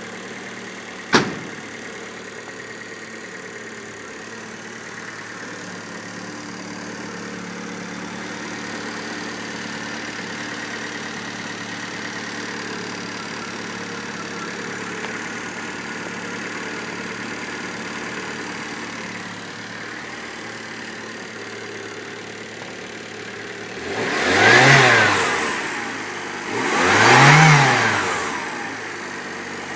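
Fiat Panda engine idling steadily, then revved twice near the end, each rev rising and falling back to idle. A sharp click about a second in.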